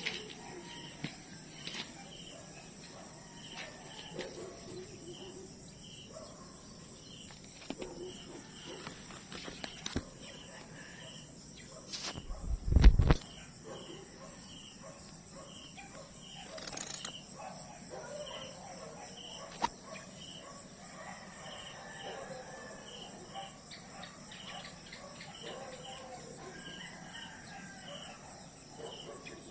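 Insects droning steadily, with a cricket-like chirp repeating about twice a second and faint bird calls. Just under halfway through there is a single loud low thump.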